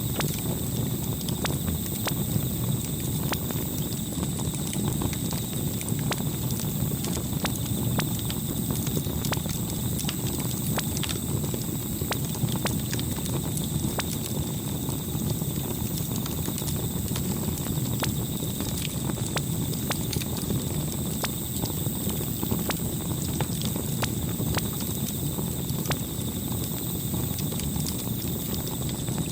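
Campfire burning with a steady low rush of flames and many scattered small crackles and pops from the burning wood.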